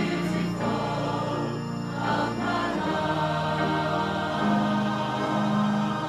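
Church congregation singing a hymn together in long held notes, with a sustained bass line that shifts to a new chord partway through.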